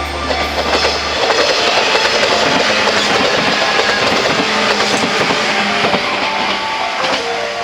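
Electric train passing close by, a steady rushing noise of wheels on rails with clicks as the wheels cross the rail joints.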